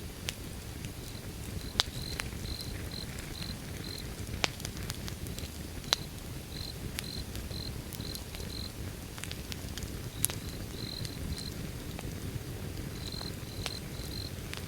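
Wood fire burning with a low steady rumble and scattered sharp crackles and pops, a few of them loud. High insect chirps come in short runs of several chirps over the fire.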